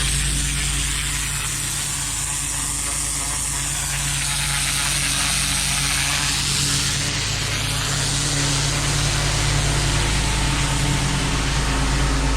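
Pressure-washer engine running steadily at constant speed, with a high hiss over it.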